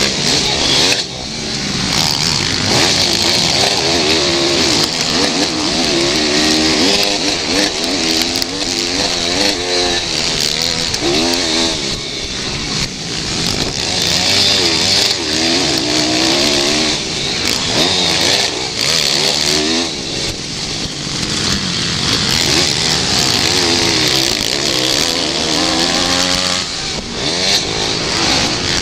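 Several pit bike engines racing, their pitch repeatedly rising and falling as the riders open and close the throttle, with overlapping engine notes.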